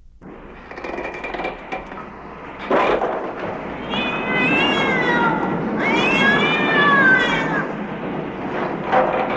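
Two long, wavering animal-like cries over a rough, noisy background. The background starts just after the opening, and the two cries come about four and six seconds in, each rising then falling in pitch.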